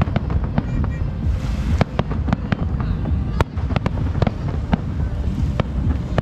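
Fireworks display: an irregular string of sharp bangs and cracks from bursting shells, two or three a second, over a continuous low rumble.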